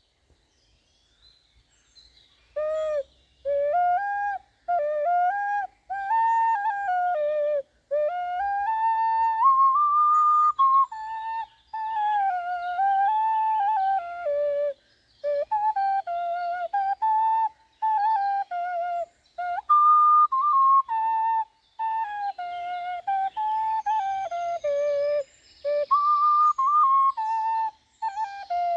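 Ocarina in D, tuned to A=432 Hz, playing a slow melody in the minor pentatonic scale: short phrases of clear, flute-like notes stepping up and down, with brief breaths between phrases. It starts about two and a half seconds in.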